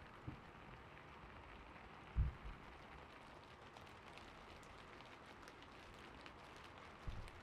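Gentle rain falling steadily, with faint light clicks of keyboard typing in the second half and a few soft low thumps.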